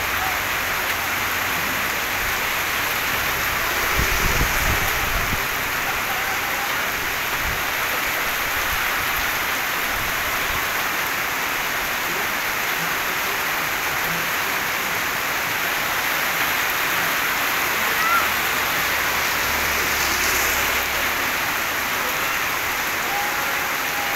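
Rain falling steadily on a wet concrete street, an even hiss, with a few low thumps about four seconds in.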